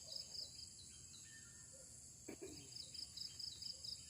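Faint riverside forest ambience: a steady high insect drone with a fast pulsing trill, and scattered bird chirps. A single brief knock about two seconds in.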